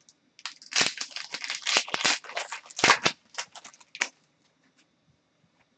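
Hockey trading cards being handled and slid against one another, a quick run of crisp rustles and clicks that stops about four seconds in.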